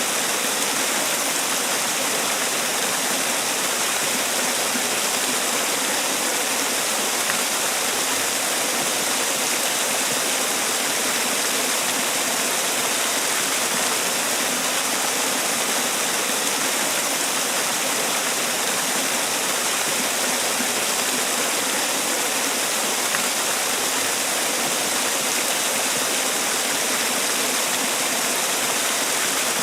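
Man-made waterfall: water falling and splashing in a steady, unbroken rush, even and hissy with most of its sound in the upper range.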